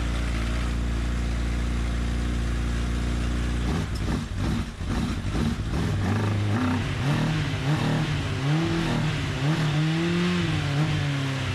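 1988 Honda CBR1000F Hurricane's inline-four engine idling steadily, then stumbling about four seconds in. It is then revved up and down several times, each rev rising and falling in pitch.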